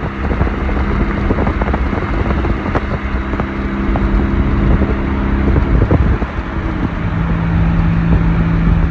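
Car engine running with a steady exhaust drone over a low rumble; the drone drops to a lower pitch about seven seconds in.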